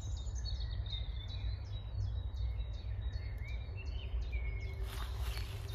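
Songbirds singing: a run of short, high, falling chirps repeated several times a second, with a longer whistled note about four seconds in, over a steady low rumble. A short burst of noise comes near the end.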